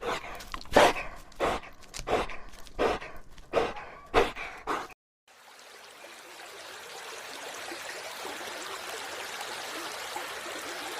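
An animal calling in a rhythmic series of about seven loud calls, roughly one and a half a second, for about five seconds. After a short break comes a steady rushing noise that slowly grows louder.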